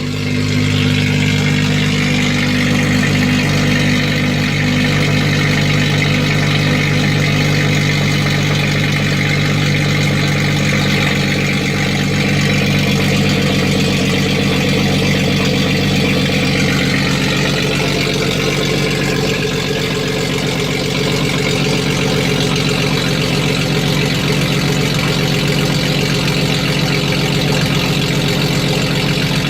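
Jeep 4.0L inline-six idling steadily through a straight-piped exhaust with no muffler: loud, a little too loud.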